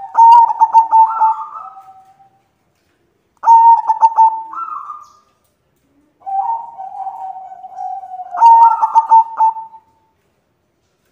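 White zebra dove cooing: three phrases of quick, stuttering coos over a held note, starting right away, about three and a half seconds in, and about six seconds in, the last ending near ten seconds.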